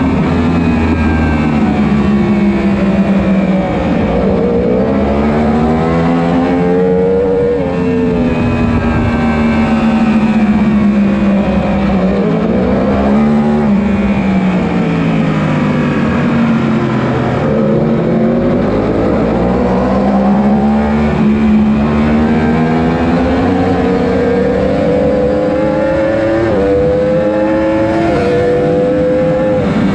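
A 1000 cc superbike engine at high revs. Its pitch falls and climbs several times, with short steps down at gear changes near the end.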